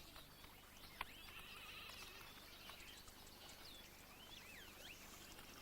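Faint bird calls: a high chattering, then several short gliding whistles, with a single sharp click about a second in.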